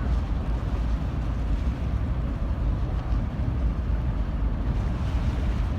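Steady low rumble aboard the ferry Katsuragi, from its engines and the water.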